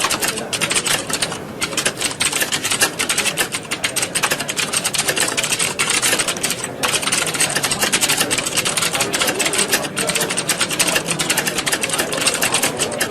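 A roomful of computer keyboards being typed on at once: a dense, continuous clatter of overlapping keystrokes, with a brief lull about seven seconds in.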